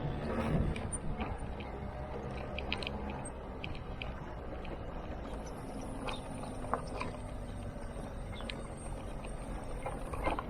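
Motor scooter engine running steadily under way, with scattered clicks and rattles and a faint high whine from about halfway in.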